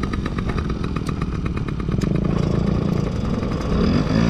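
Small dirt bike engines running at idle with an even, rapid putter.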